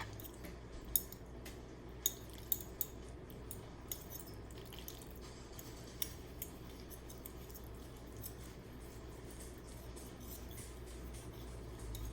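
A fork clicking against a plate as tender baked chicken is cut without a knife: a few sharp clicks in the first six seconds, then only a faint low hum.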